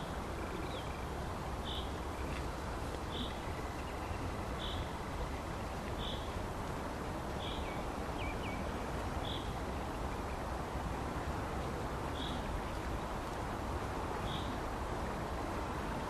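A bird calling a short high note over and over, about once every one and a half seconds, with a few faint chirps from other birds, over a steady hiss of background noise.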